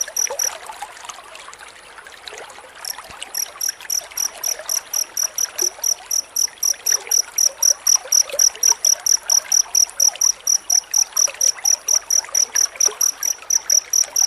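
Cricket chirping in a fast, even train of high, shrill pulses, about four or five a second. The chirping breaks off about half a second in and starts again about three seconds later, over a steady hiss.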